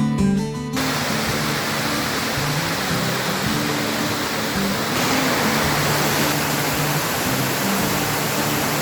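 Waterfall's falling water rushing in a loud, steady wash of noise, cutting in under a second in as guitar music drops to a few low notes underneath.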